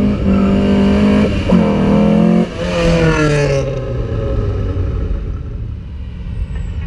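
Sports car engine at full throttle, rising in pitch through two quick upshifts in the first few seconds. After that the note falls and fades as the car pulls away, leaving a low engine rumble.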